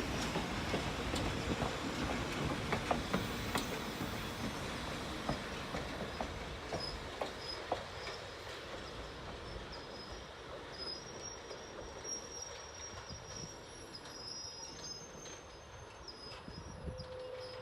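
Railroad passenger cars rolling along the track, their wheels clicking over rail joints, the sound fading away over the seconds. Faint high-pitched wheel squeal in the second half.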